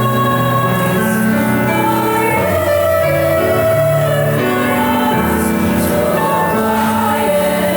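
Music: a choir singing held notes with instrumental accompaniment.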